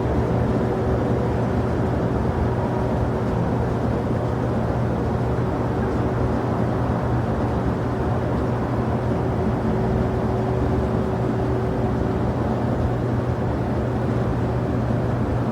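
Steady rumble of jet airliner engines, with a constant low hum and a few faint steady tones over it.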